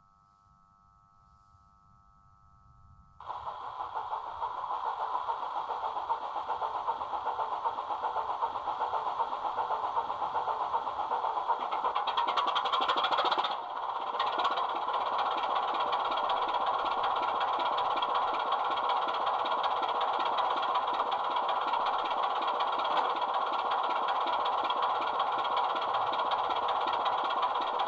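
A sound-fitted 00 gauge model diesel locomotive's engine sound played through its small onboard speaker. The engine starts about three seconds in, builds up over the next ten seconds, drops back a little and then runs steadily.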